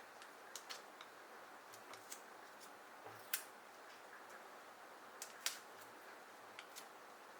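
Faint steady hiss with scattered light clicks and taps at an irregular pace, two of them sharper than the rest in the middle.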